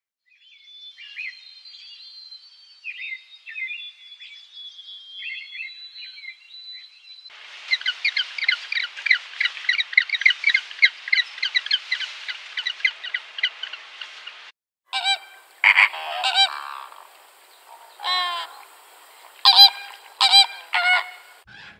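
Birds calling in three short spans: faint high twittering, then a dense rapid chatter of many birds, then louder, lower calls repeated in short bursts.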